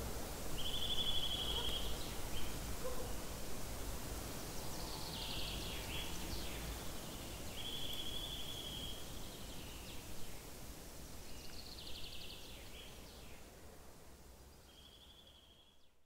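Songbirds singing in woodland. One bird repeats a short, even, trilled phrase about every seven seconds, and other birds add short notes in between, over a steady low background rumble. The sound fades away near the end.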